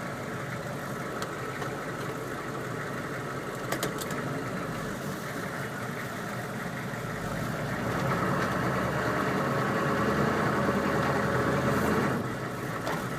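GEP 6.5-litre turbo diesel V8 running on the road. It grows louder for about four seconds from around seven seconds in, then drops back suddenly near the end. The owner hears unexplained noises from this engine under load.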